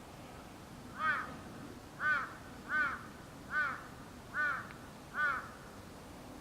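A bird giving six short calls in a row, each under half a second, spaced less than a second apart, over a faint steady background hiss.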